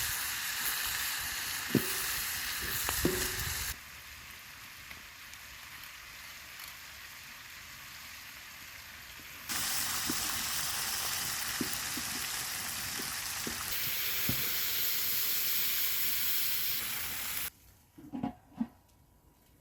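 Food frying and sizzling in a pan, with a few sharp clinks of a utensil against it. The sizzle drops and rises abruptly a couple of times and cuts out near the end, leaving a few soft knocks.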